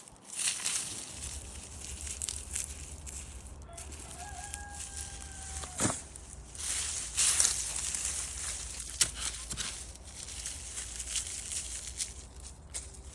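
Rustling and crackling handling noise, with a hen giving one drawn-out call about four seconds in.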